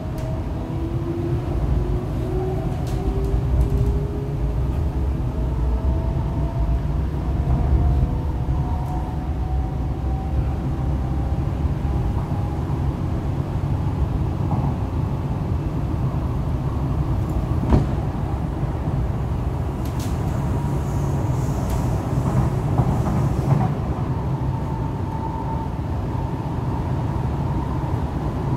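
Inside an MTR East Rail Line R-Train electric multiple unit under way: the traction motor whine rises slowly in pitch over the first dozen seconds as the train picks up speed, over a steady rumble of wheels on rail. Later it holds a steady tone, with a few sharp clicks.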